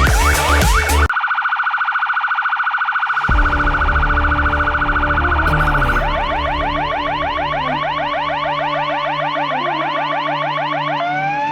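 Fire engine's electronic siren changing modes: a fast rising yelp, then a steady warbling tone for a few seconds, then the fast yelp again at about five sweeps a second, and a slow rising wail starting near the end. A low rumble comes in a few seconds in.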